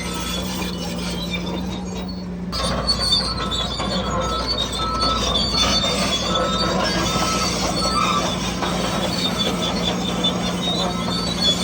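Radio-controlled model bulldozer at work: a steady motor and gearbox hum with intermittent high squeaks and scraping from its running gear. It becomes louder and busier about two and a half seconds in.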